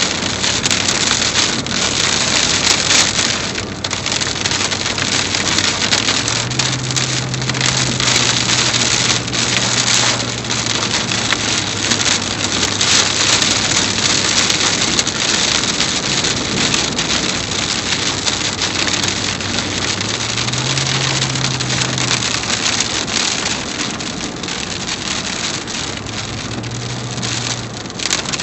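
Heavy rain pouring down in a storm: a loud, dense, steady hiss scattered with crackling drops. A faint low hum comes and goes underneath, first about a quarter of the way in and twice more near the end.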